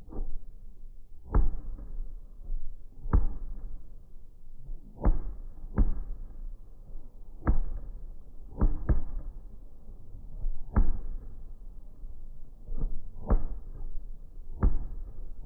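Fireworks shells bursting overhead: about eleven sharp booms, one every second or two, over a low rumble.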